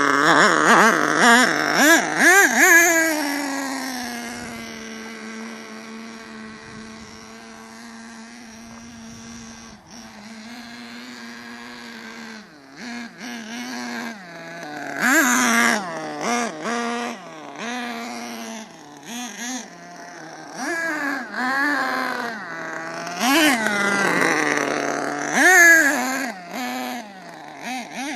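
Nitro RC monster truck's small two-stroke glow engine buzzing as the truck is driven. The pitch sweeps up and down loudly in the first few seconds, settles to a steadier, fainter drone, then rises and falls in many short throttle bursts from about twelve seconds in. The engine is tuned rich and pulls sluggishly.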